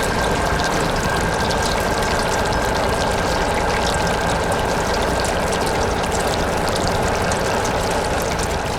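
Steady rushing water, with a thin steady high tone running through it.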